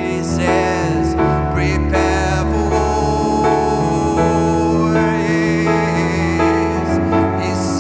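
Slow worship music: held keyboard chords with singing over them.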